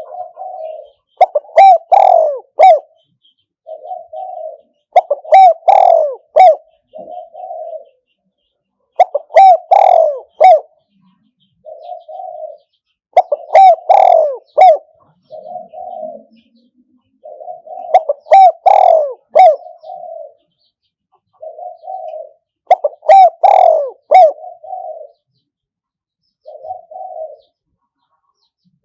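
Spotted dove cooing over and over: a loud phrase of several coos about every four to five seconds, with softer single coos between. It is a decoy dove's call, used to lure wild spotted doves to a trap.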